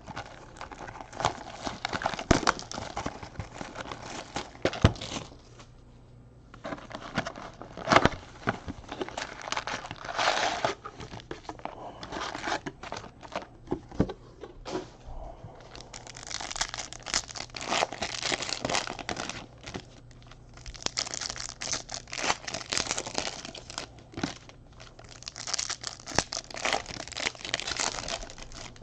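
Foil wrappers of Panini Prizm Fast Break card packs being torn open and crumpled: a long run of crinkling and tearing, with a few sharp taps in between.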